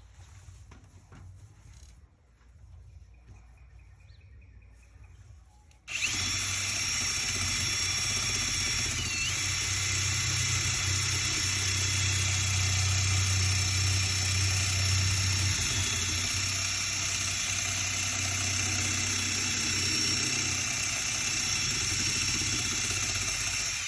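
Electric drill with a sanding pad attachment starting up about six seconds in and running steadily at high speed as it sands paint off a vehicle's steel hood, with a high whine that dips briefly soon after it starts, then stopping abruptly near the end. The pad is worn down and about due for replacement.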